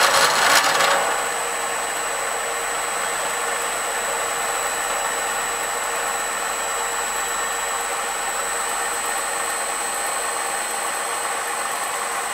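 Bridgeport milling machine with a four-insert fly cutter taking a light facing pass across a steel block. The loud, coarse cutting noise stops about a second in as the cutter clears the work. The spindle then keeps running steadily with a constant high whine.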